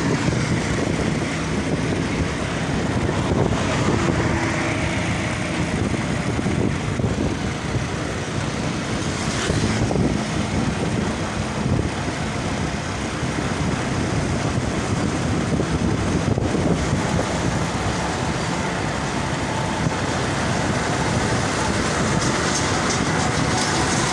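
Steady noise of heavy road traffic, with cars, buses and trucks passing continuously.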